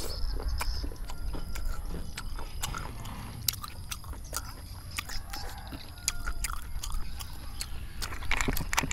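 Close-miked chewing of spicy stir-fried snails, with many small sharp clicks of snail shells and mouth sounds, and a louder slurp near the end.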